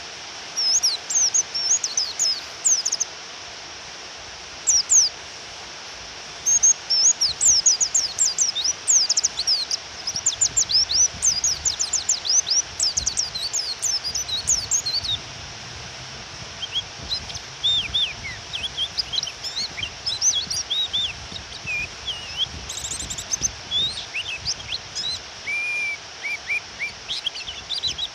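Female white-eye (pleci) calls, the kind used to provoke male white-eyes into singing: rapid runs of thin high chirps, densest in the first half, with lower chirps in the second half. Under them runs a steady hiss of rain.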